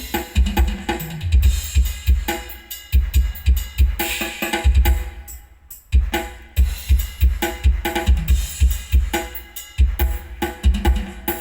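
Music with a heavy, pounding kick-drum bass beat played loud through a 'Phi Bok' bass speaker cabinet and mid-range speakers. The bass drops out for about a second about halfway through, then the beat comes back.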